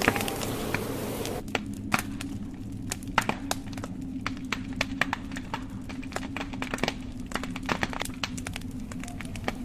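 Wood fire crackling in a fireplace, logs giving off many sharp irregular pops and snaps. A steady hiss under them stops abruptly about a second and a half in.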